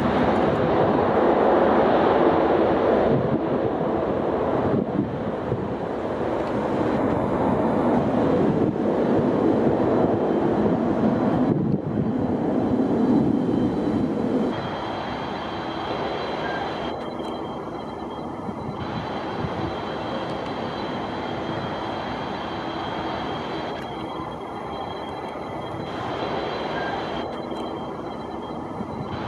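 Jet airliner engines running: a loud, steady rumble that drops off about halfway through, leaving a quieter roar with a steady high whine.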